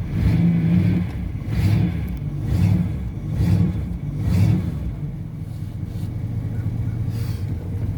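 1983 Pontiac Firebird's small-block V8 running just after a cold start. Its revs rise and fall about once a second for the first five seconds, then it settles to a steadier idle.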